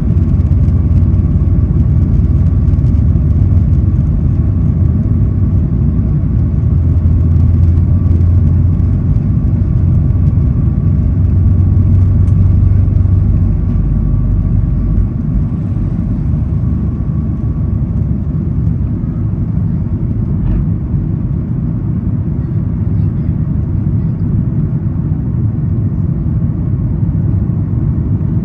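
Boeing 737 MAX 8 jet engines and airflow heard from inside the economy cabin during takeoff and climb-out: a loud, steady low rumble with a faint whine over it. The rumble eases a little about halfway, and the whine fades out later.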